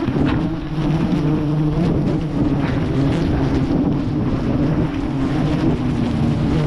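Steady, loud buzzing drone of a swarm of wild honey bees around the hive, with wind rumbling on the microphone.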